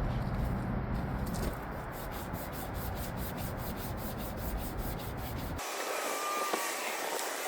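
Emery cloth rubbed by hand over a lightly rusted steel forklift carriage roller, in quick back-and-forth strokes of about four to five a second. About five and a half seconds in the sound changes abruptly: the low rumble stops and a lighter hiss is left.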